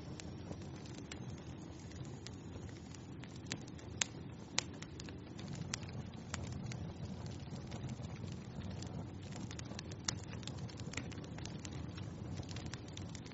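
Wood fire crackling in a fireplace: a steady low rumble of burning flames with frequent sharp pops, the loudest two about four seconds in and another near ten seconds.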